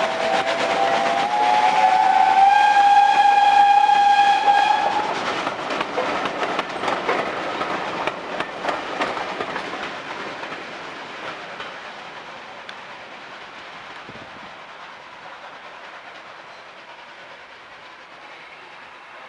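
A steam locomotive's whistle sounds for about five seconds, its pitch rising slightly. The train's running noise and wheel clicks then fade away steadily as it draws off.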